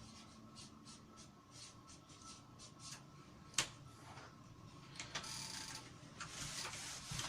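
Faint pen scratching on paper in short strokes, with a sharp click about three and a half seconds in. The scratching becomes denser and more continuous over the last two seconds.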